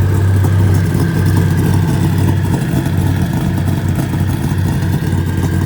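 Car engine running at a steady idle with a loud, low exhaust rumble.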